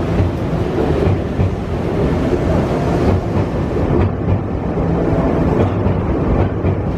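Nankai electric commuter train pulling out of the terminus, a steady low rumble of wheels and motors as it runs past the platform and away over the pointwork.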